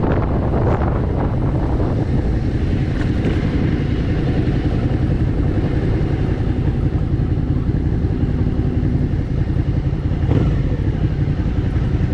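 Suzuki SV650's 645 cc V-twin running at low revs as the bike rolls slowly, heard from the rider's seat, with wind buffeting the microphone for about the first second.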